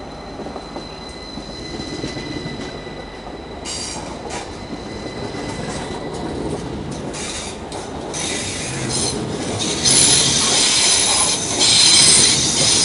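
Heathrow Express Class 332 electric train running into a platform and passing close by. A steady high whine comes first; then, from about four seconds in, a high-pitched wheel squeal and hiss build up and grow louder as the carriages go past.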